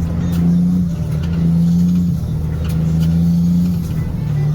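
Heavy truck's diesel engine running steadily under way, a deep even drone that dips slightly in pitch near the end.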